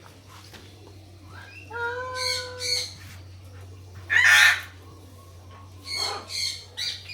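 Captive birds squawking: a couple of shorter calls about two seconds in, one loud harsh squawk just after the four-second mark, and more short squawks near the end.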